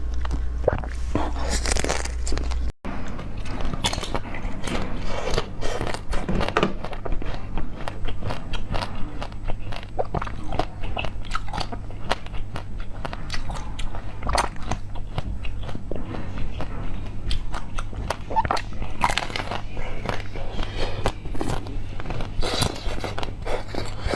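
Close-miked eating: a person biting into and chewing crunchy food, with dense crackly bites and crunches throughout over a steady low hum. There is a very brief break just under three seconds in.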